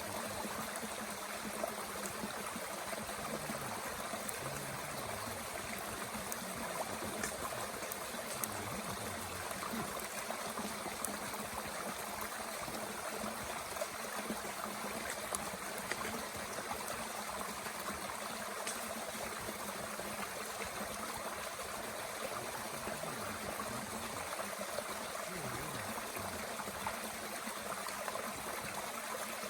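Mountain stream flowing steadily with a constant rushing babble. A few faint sharp crackles are scattered through it, from the small wood fire in a Bushbox stove.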